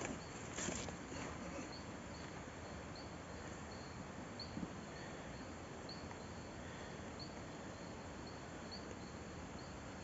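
An insect chirping in an even rhythm, about two to three short, high chirps a second, over a faint steady hiss.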